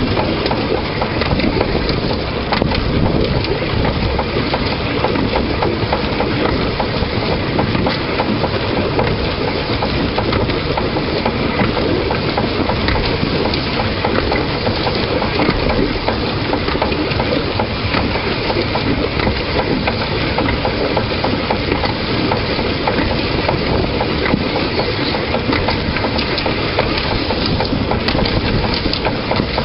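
Steady, loud running noise of a narrow-gauge train moving along the track, picked up close by a camera mounted on the front of the locomotive.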